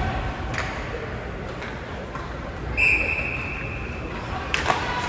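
A short, high whistle blast nearly three seconds in, fading out over about a second, over the steady murmur of an ice arena crowd; a few sharp knocks, like sticks or a puck on the boards, come near the end.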